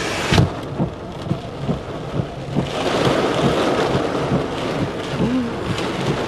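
Heavy rain and wind beating on a car, with irregular thumps, heard from inside the car. There is a loud knock about half a second in, and the downpour is at its thickest from about two and a half seconds in until nearly the end.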